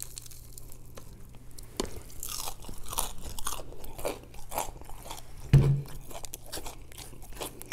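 Crispy fried chicken being pulled apart by hand and chewed: a run of short crunches and crackles from the breading, with wet chewing. There is one dull thump about two-thirds of the way through.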